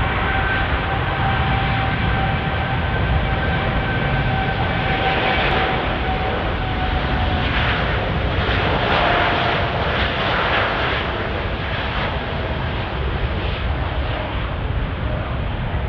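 Jet airliner's engines running at high power: a broad rumble with a steady whine that slowly falls in pitch, growing rougher and louder around the middle.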